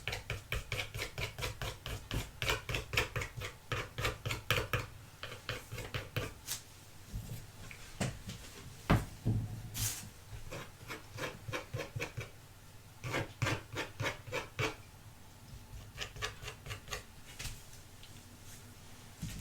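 Quick repeated rubbing strokes on a small hard object, several a second, in runs with pauses, and a few single sharp knocks about eight to nine seconds in.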